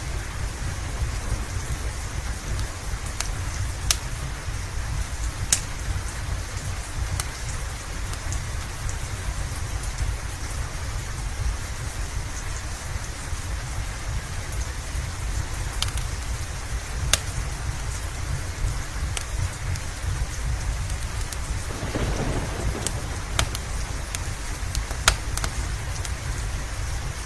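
Steady rain with a continuous low rumble of thunder underneath, and scattered sharp pops from a crackling wood fire.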